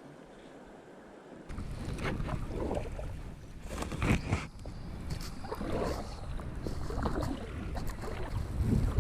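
Water splashing and rushing around a kayak on a river, with rumbling wind and scratching noise on the action camera's microphone, getting suddenly louder about a second and a half in.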